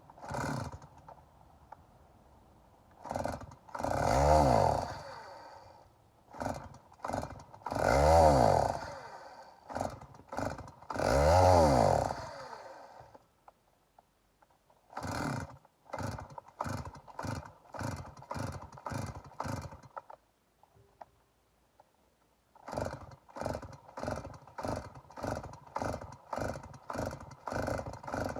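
Stihl MS 290 two-stroke chainsaw being pull-started. Three times it fires briefly, its engine note rising and then falling away as it dies. After that come two runs of quick pull-cord strokes, about two a second, without it catching. The saw will not start and keep running, and the owner doesn't know what's wrong with it.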